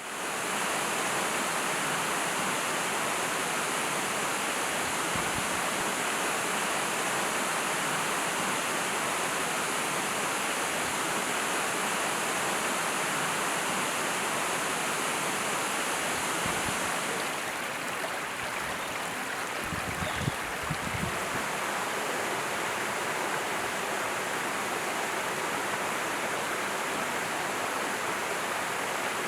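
Mountain valley stream flowing steadily with a continuous rush of water. About seventeen seconds in the sound turns duller, and a few short low bumps follow soon after.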